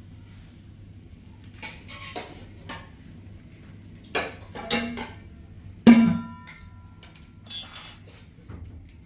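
A series of separate clinks and knocks from hard objects being handled, like dishes. The loudest, about six seconds in, leaves a short ringing tone, and a short hiss follows near the end.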